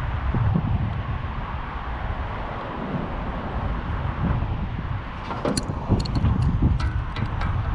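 Wind rumbling on the microphone outdoors. About five seconds in comes a quick run of light clicks and taps.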